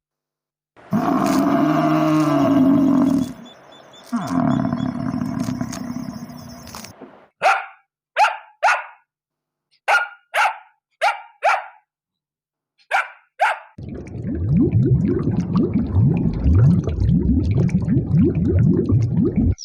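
A run of animal calls: two long low calls, then about a dozen short, sharp barks in twos and threes, then several seconds of low, rough, rapid growling.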